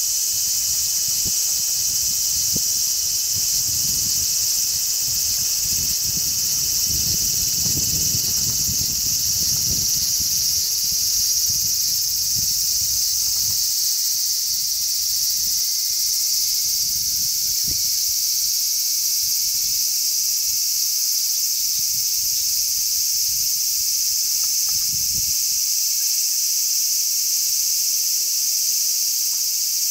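A chorus of large brown cicadas (Graptopsaltria nigrofuscata) singing, a steady high buzz with no break. Wind gusts rumble on the microphone through the first half and die down about halfway.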